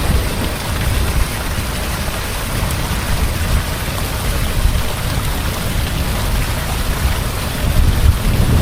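Heavy rain falling steadily, with a deep rumble underneath that does not let up.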